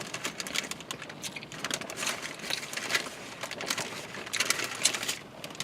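Eating sounds: someone chewing a bite of a Whopperito, with irregular small clicks and rustles as the food is chewed and handled.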